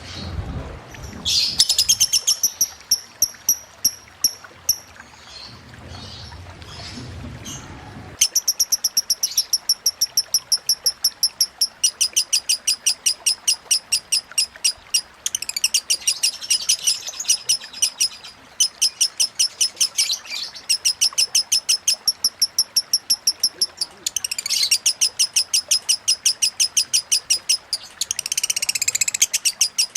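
Lovebird singing in long runs of rapid, high-pitched repeated chirps, the continuous 'ngekek' trill of a 'konslet' lovebird, broken by brief pauses.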